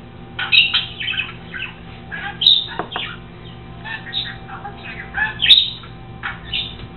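Pet bird chirping and squawking in many short calls, with a few sharp clicks among them.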